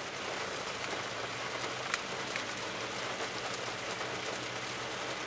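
Steady hiss of background noise with a thin, high whine running through it and a few light clicks.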